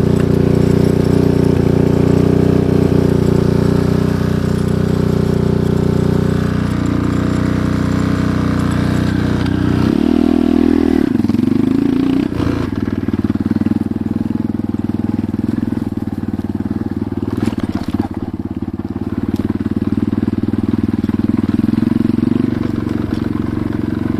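Enduro motorcycle engine running steadily under way. Its note changes and bends about ten seconds in, then settles into a new steady pitch.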